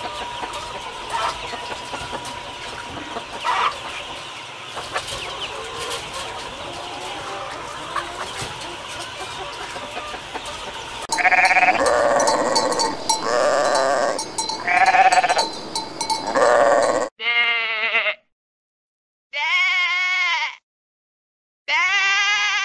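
For about the first eleven seconds there is steady background hum and noise from a flock of white chickens in a poultry house, with a few brief faint calls. Then a flock of sheep bleats loudly and repeatedly. Near the end come three separate bleats, each about a second long, with silence between them.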